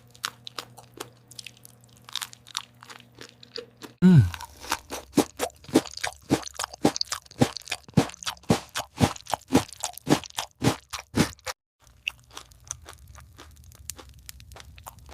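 Close-miked eating sounds of pizza: a quick run of crisp crunches and chewing, loudest and densest from about four seconds in until a brief break near twelve seconds, then fainter. About four seconds in, a low tone sweeps down.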